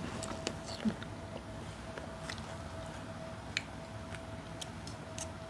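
Faint eating sounds: scattered small clicks and mouth noises of people chewing an egg sandwich, over a faint steady tone and low room hum.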